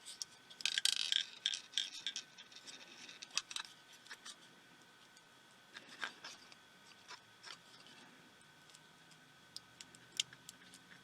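Small plastic parts and hand tools scraping and clicking as a tiny pico projector is prised apart, with a burst of rubbing and scratching about a second in, then scattered sharp clicks and ticks.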